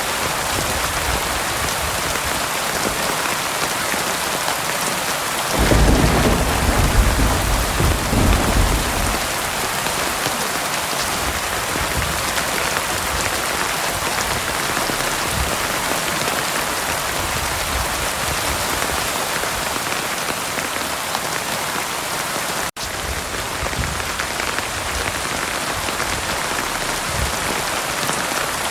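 Heavy rain pouring steadily, with a roll of thunder rumbling low for about three seconds starting around six seconds in. The rain sound cuts out for an instant around 23 seconds in.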